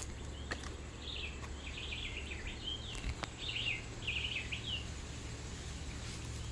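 A bird singing a quick run of chirps and short trills for about four seconds, over a steady low rumble, with a few light clicks partway through.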